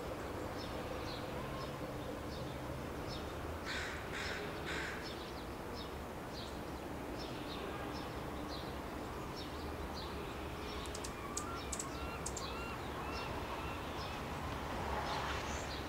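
Birds calling: a steady series of short high chips about twice a second, with three harsher calls about four seconds in and a quick cluster of sharp clicks past the middle.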